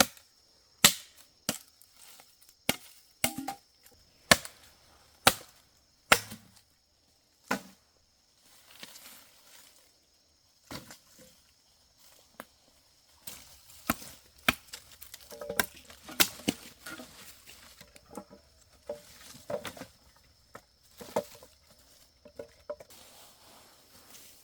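Firewood being chopped with a blade: irregular sharp chopping strokes, the hardest blows in the first seven seconds and a quicker run of lighter strokes in the middle.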